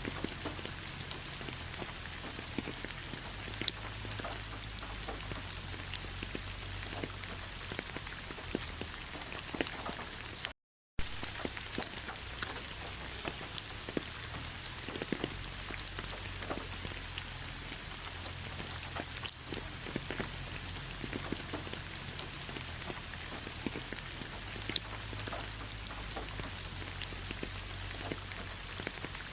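Steady rain pattering onto fallen leaves: an even hiss with many separate drops ticking at random. The sound cuts out completely for a moment about ten seconds in.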